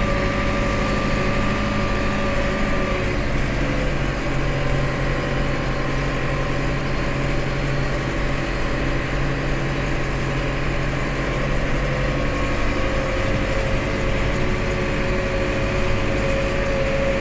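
McCormick CX95 tractor's diesel engine running steadily; its speed drops a few seconds in and picks up again about three-quarters of the way through.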